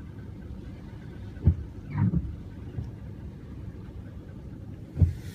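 Steady low rumble of a thunderstorm's wind and rain, with two sharp knocks, one about a second and a half in and one near the end, and a short rising sound about two seconds in.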